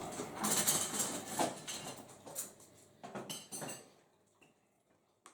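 Dishes and cutlery clattering and clinking. The clatter thins out and stops about four seconds in.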